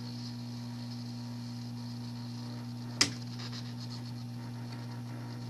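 Steady electrical hum and hiss of bench equipment while a small surface-mount voltage regulator is worked off a circuit board, with one sharp click about three seconds in.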